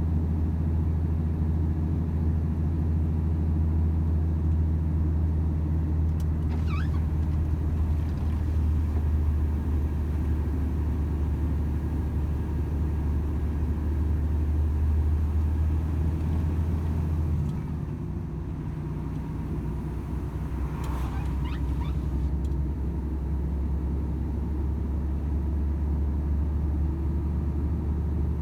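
Volvo FH 500 truck's 13-litre inline-six diesel drone under way, a steady low hum with tyre and road noise. About seventeen seconds in the engine note changes and drops a little in level. Two faint brief squeaks come about seven seconds in and again around twenty-one seconds.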